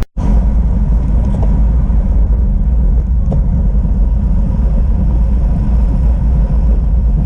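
Steady, loud low rumble of wind buffeting the microphone of a camera carried on a moving bicycle, after a brief dropout at the very start.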